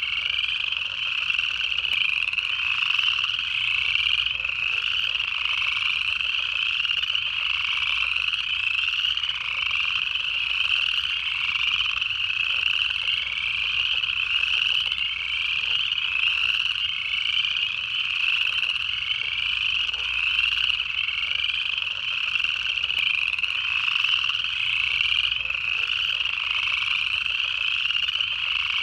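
Dense pond chorus of upland chorus frogs: many overlapping rising trills repeating without a break.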